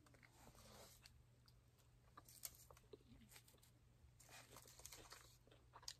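Faint chewing and biting of chicken rolls, with a few soft clicks scattered through.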